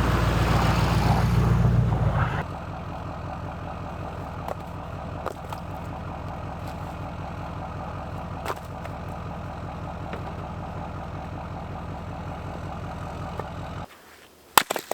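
An engine running, louder for about the first two seconds, then idling steadily until it is shut off near the end, followed by a few sharp clicks.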